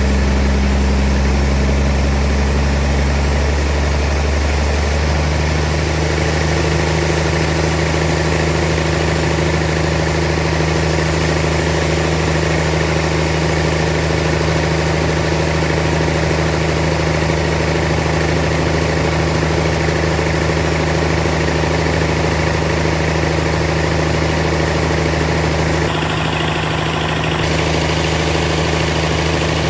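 Sawmill machinery running steadily with a constant engine-like hum; its pitch shifts once about four seconds in.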